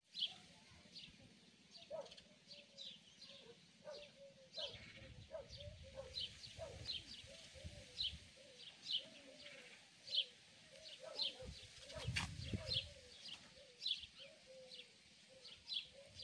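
Faint outdoor birdsong: short high chirps repeating about once or twice a second, over a lower wavering call.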